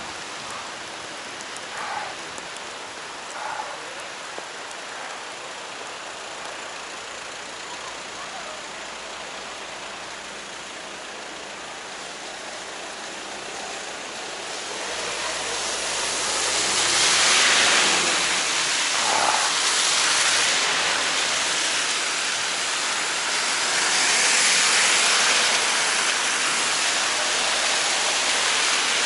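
Steady hiss of rain and tyre spray on a flooded, rain-soaked street. It swells about halfway through as a vehicle passes close by with a brief low engine rumble, and swells again near the end.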